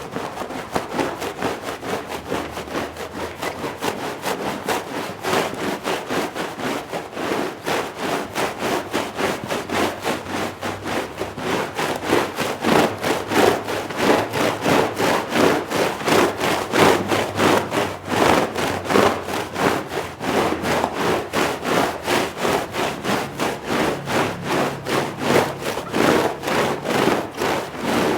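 A brush scrubbing a wet shag rug in fast back-and-forth strokes, about three a second, a steady rhythmic rubbing.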